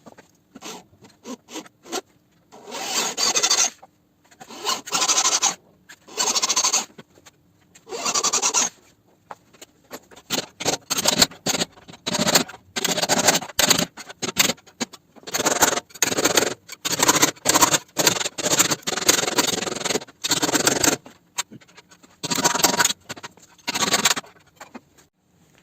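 Electric drill cutting out spot welds in the sheet-steel end cap of a car's front frame rail: many short bursts of metal-on-metal grinding, each about a second long, with brief pauses between welds.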